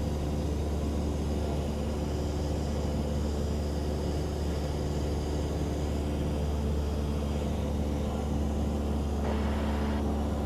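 Cessna 172 Skyhawk's piston engine and propeller drone steadily in cruise, heard from inside the cabin, an unchanging low hum with a few steady overtones.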